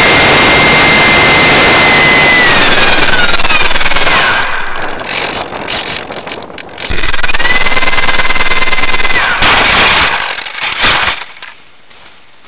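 RC plane's motor and propeller running at high throttle, a steady high whine under heavy wind rush, throttled down about four seconds in and back up around seven seconds, then cut near ten seconds. A few sharp knocks follow as the plane comes down hard in a failed landing, then it goes quiet.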